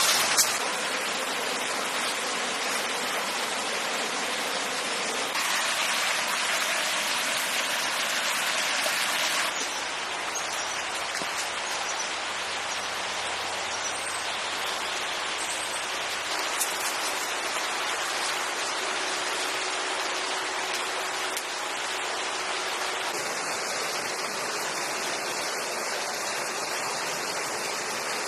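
Steady rain falling, an even hiss that changes in tone abruptly a few times.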